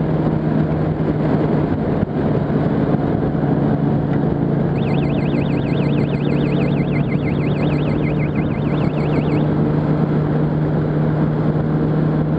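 Yamaha R1 inline-four engine running at a steady cruising speed, with road and wind noise. From about five seconds in, a high, fast-warbling electronic tone sounds for about four and a half seconds.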